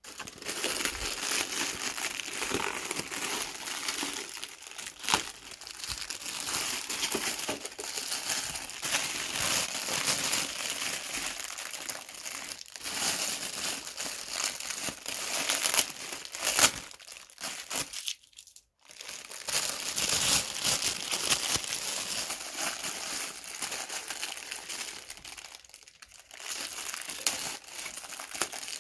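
Packaging being crinkled and crumpled by hand as a space heater is unwrapped, a continuous crackling rustle with a brief pause about two-thirds of the way through.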